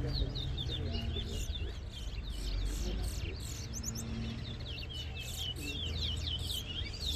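Towa-towa finch singing a rapid song of quick, high chirping notes with no pause, over a low background rumble; in a bird race each such song is counted toward the score.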